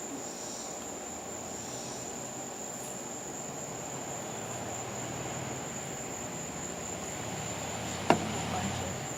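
Crickets singing in a steady, unbroken high-pitched chorus, with one sharp click about eight seconds in.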